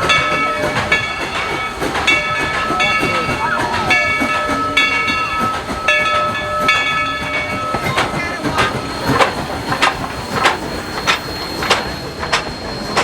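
Steam locomotive bell ringing in an even rhythm, about two strokes a second, for the first seven seconds or so. It gives way to a series of sharp, irregular chuffs and clanks from the train.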